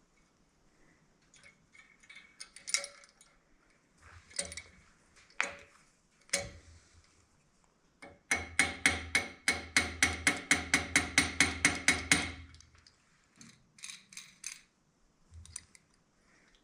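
Small metal parts clinking and knocking, then a quick, even run of about twenty light hammer taps on metal, about five a second, each with a bright ringing tone, followed by a few last clicks.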